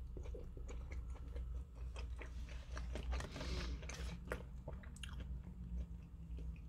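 A person biting into and chewing a chicken burger with lettuce, many small crunches and mouth clicks.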